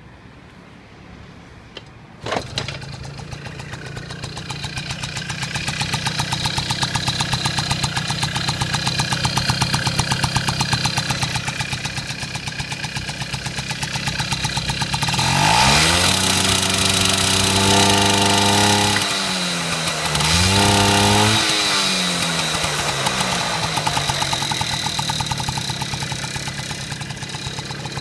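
Honda Motocompo's 49cc two-stroke single-cylinder engine starting about two seconds in and idling, then revved up twice in the middle before dropping back to a steady idle.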